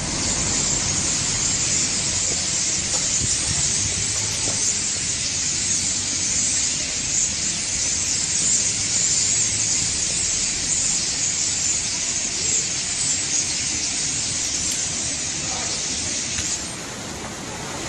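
A huge flock of small birds in a tree, thousands chirping at once in a dense, high-pitched chatter. The chorus drops away suddenly about a second before the end.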